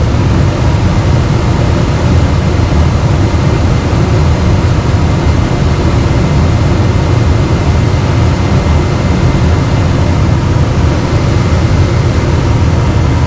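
Trane furnace running, heard close up: a loud, steady rush of blower air with a faint steady whine.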